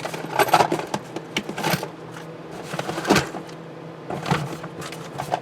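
Parts and their packaging being handled: scattered clicks, knocks and rustles, over a steady low hum.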